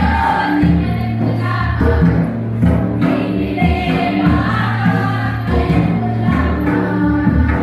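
A group of voices singing a Karam folk song together over steady drum beats.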